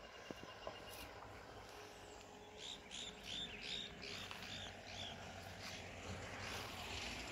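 A bird calling a quick run of short, repeated arched chirps, about four a second, for a couple of seconds in the middle, over faint open-air background noise. Two small clicks come near the start.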